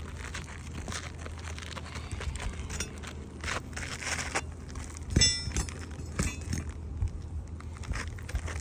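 Asphalt shingles being pried and worked loose by hand, with irregular crackling and crunching of the stiff shingle and its granules. A short high-pitched squeal and a louder scrape come about five seconds in.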